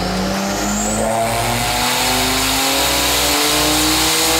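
Turbocharged BMW M30 straight-six in an E30 pulling a full-throttle run on a chassis dyno, its pitch climbing smoothly and steadily as the revs rise.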